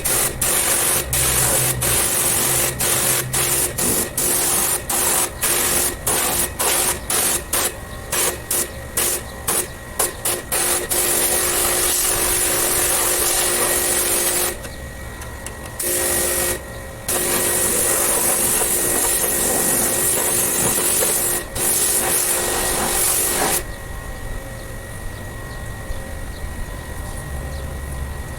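Pressure-washer water spray hissing against an air conditioner's outdoor unit: first in many short on-off bursts, then in longer steady spells, stopping a few seconds before the end. A faint steady machine hum runs underneath.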